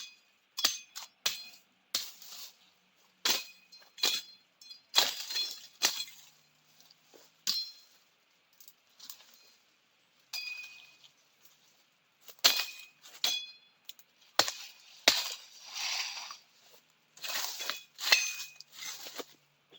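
Machete chopping and slashing brush to clear ground: a run of irregular sharp strikes, each with a short metallic ring from the blade, with a few brief pauses.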